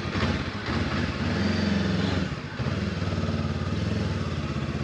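Honda CB500X's parallel-twin engine running steadily, swelling briefly about a second and a half in.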